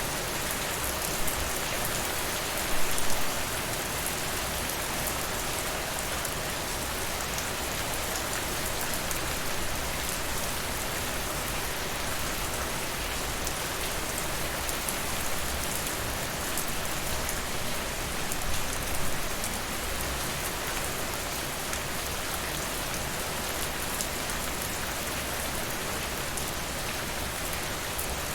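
Steady rain falling, mixed with a crackling fireplace. Brief louder snaps stand out about three seconds in and again about two-thirds of the way through.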